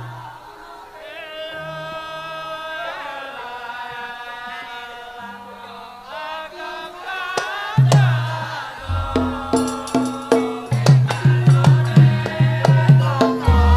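Javanese gamelan music for a lengger mask dance. A singer's wavering vocal line runs over held pitched tones. About eight seconds in, hand drums and deep gong strokes come in with a quick, loud beat.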